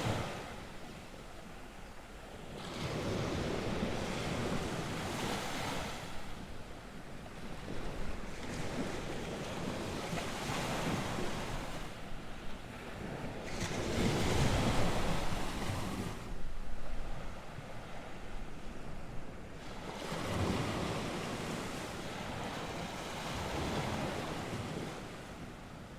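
North Sea surf: waves breaking and washing ashore in repeated swells every few seconds, the loudest about halfway through, with wind rushing over the microphone.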